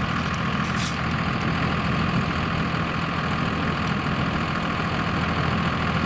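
Dodge Ram pickup's engine running steadily, with no rise or fall in pitch, while the truck sits stuck in deep mud with its front wheels not engaging.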